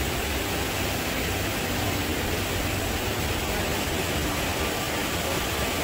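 River water rushing, a steady, unbroken gush.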